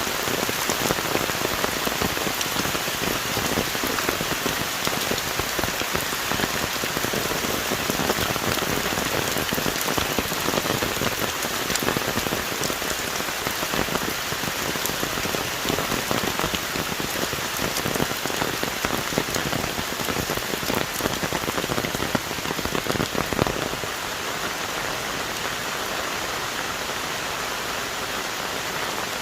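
Heavy tropical rain falling on forest trees and leaves, a dense hiss full of individual drops hitting. About three-quarters of the way through it turns abruptly smoother and slightly quieter, with fewer distinct drops.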